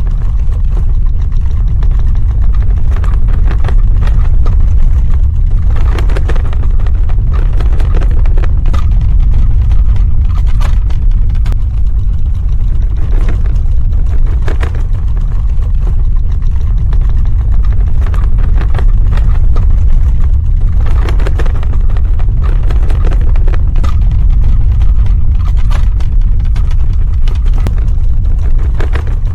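Earthquake sound effect: a loud, continuous deep rumble with crackling and rattling on top, the rattling growing stronger every several seconds.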